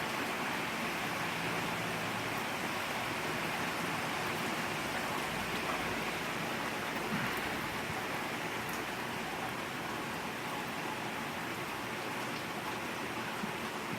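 Steady rain falling, a constant even hiss with a few faint ticks of drops.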